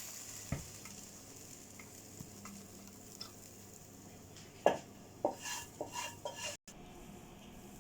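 Chicken fajita filling sizzling faintly in the frying pan while a spoon stirs and scrapes it. A single knock about half a second in, then a cluster of clinks and knocks of the utensil against the pan from about four and a half seconds in, as the cooked filling is taken out.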